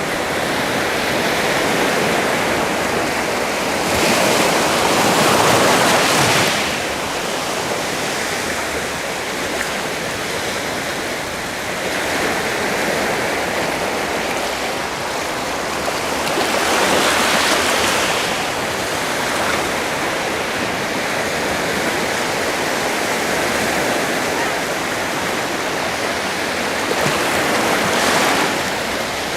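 Sea waves washing in with a steady rush of surf; three waves swell up and break about ten to twelve seconds apart.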